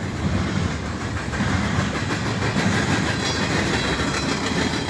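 Freight train of empty intermodal well cars rolling past, a steady noise of steel wheels running on the rails.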